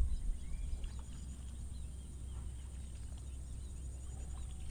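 Open rice-field ambience: a steady high insect drone with faint scattered chirps, over a low wind rumble on the microphone.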